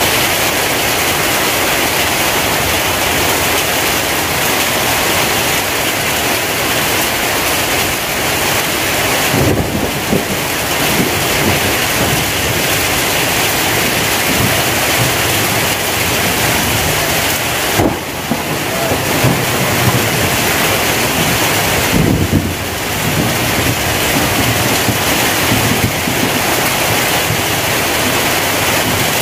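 Heavy rain pouring steadily onto tarpaulins, sheet-metal roofs and waterlogged ground. A few brief low rumbles come through in the middle.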